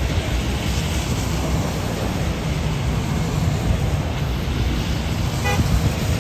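Motorcade vehicles passing on a wet road: a steady rumble of engines and tyres, with one short horn toot about five and a half seconds in.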